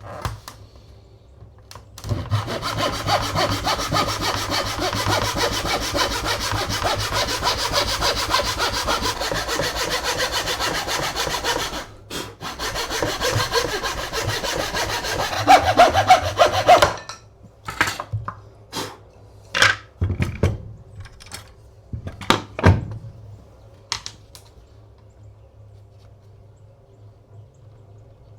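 Hand saw cutting through a mahogany board, running steadily for about ten seconds, stopping briefly, then running again for a few seconds. It is followed by several separate knocks as the wood is handled.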